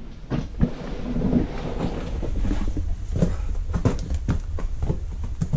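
Irregular scuffs and knocks of a hiker scrambling down over rock, over a steady low rumble on the microphone.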